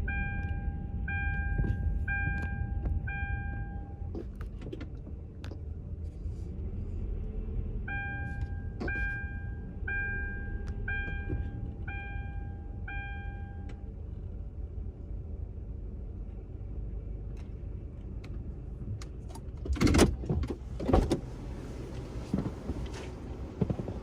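A car idles with a steady low rumble while an electronic chime sounds in two runs of six evenly spaced beeps, one at the start and one about eight seconds in. A few loud thumps come near the end.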